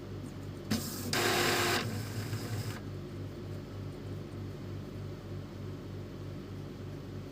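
Epson L310 inkjet printer going through its power-on cycle: a click about a second in, then a short burst of mechanical whirring that dies away within about two seconds, over a steady low hum. It runs through normally, without the head stalling at the end of its travel.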